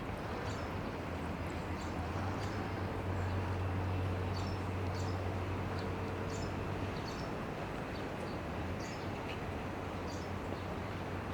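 Small birds chirping: short, high chirps come every half second or so, over a steady low hum that swells slightly a few seconds in.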